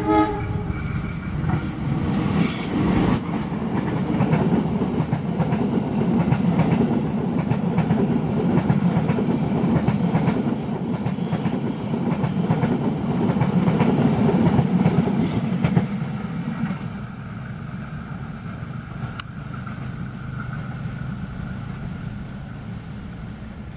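Train passing at close range, its wheels rumbling and clacking over the rails, with the end of a horn blast at the very start. The rumble holds steady for about sixteen seconds, then drops away as the train moves off.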